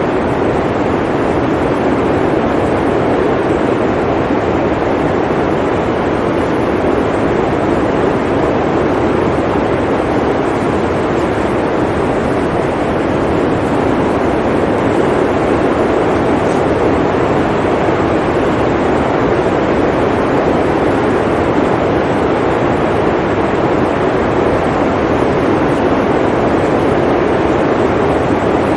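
Blizzard wind blowing steadily, a loud, even rush of noise that sits low to middle in pitch with little hiss on top.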